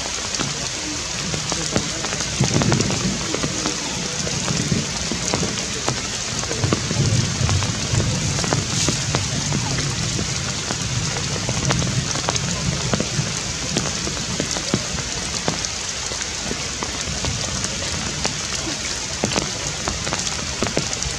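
Steady rain falling, with many sharp drip ticks scattered through it.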